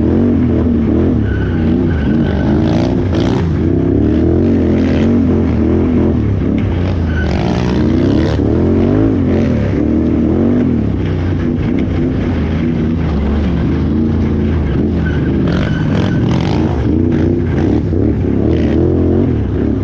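Can-Am Renegade XXC 1000R ATV's V-twin engine running hard under racing throttle, its pitch rising and falling constantly as the throttle is worked on and off.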